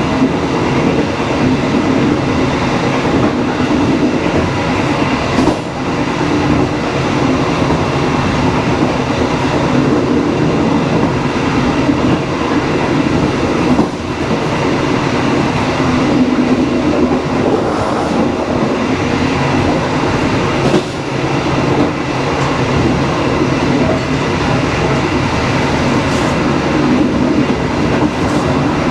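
Dharmawangsa passenger train running along the line: a steady, loud rumble and rattle from the moving carriage, with a few sharp knocks from the wheels and running gear.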